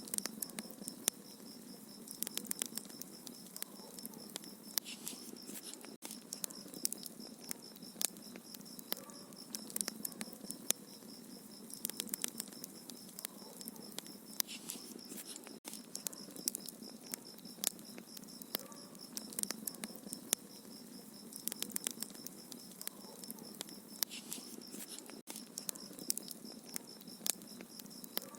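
Wood fire in a fireplace crackling, with irregular sharp snaps and pops over a steady soft hiss. A faint steady high-pitched tone runs underneath.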